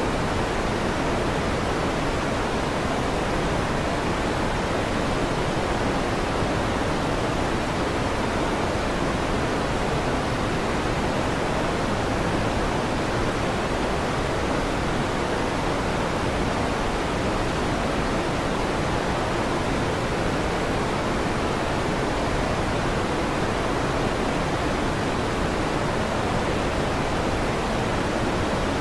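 Steady electric fan noise: an even, unchanging hiss.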